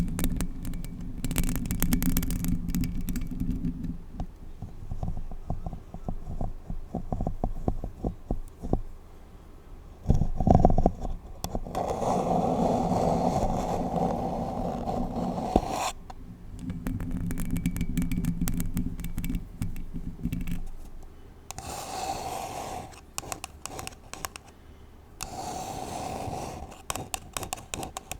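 Long acrylic nails scratching and tapping on a paper cup held against a bare microphone, close and crackly. It comes in spells of a few seconds, some deep and rumbly, others brighter, with lighter scratching in between.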